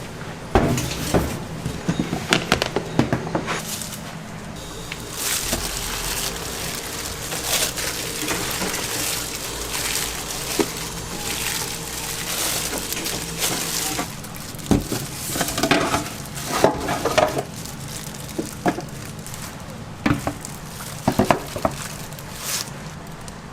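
Kitchen food-prep sounds: scattered clattering and knocks of utensils and dishes over a steady low hum, with patches of hiss.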